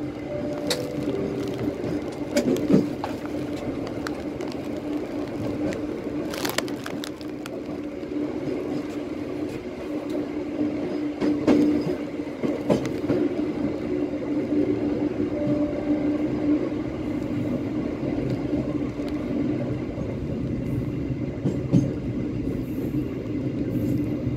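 Passenger train running on the rails, heard from the rear car: a steady hum with rumbling and scattered clicks and knocks from the wheels and track.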